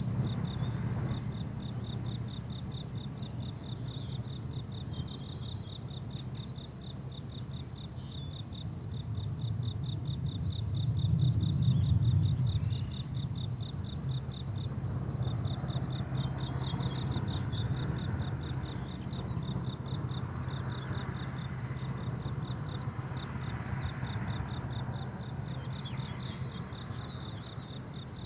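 Crickets chirping in a meadow chorus: a high, rapid, evenly repeating chirp that never lets up. Under it runs a low background rumble that swells briefly about twelve seconds in.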